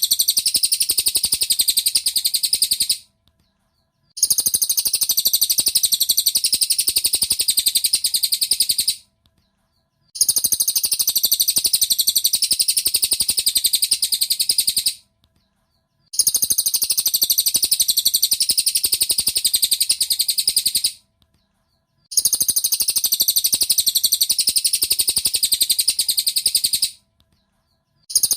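Racket-tailed treepie (cililin) calling in bouts of very rapid, high chattering notes, each about five seconds long, with about a second of silence between them, repeating evenly like a looped training recording.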